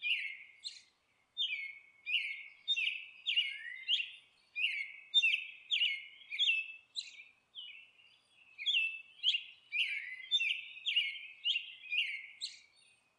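A bird chirping over and over, short calls that each slide down in pitch, about two a second, with brief pauses about a second in and about eight seconds in.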